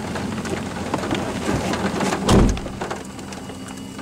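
Rain spattering on the vehicle's roof and windshield as scattered small ticks over a steady hiss. A single low thump a little past halfway is the loudest sound, and the rain grows quieter after about three seconds.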